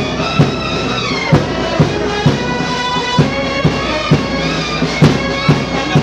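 Band music: sustained wind-instrument notes over a steady drumbeat of about two beats a second.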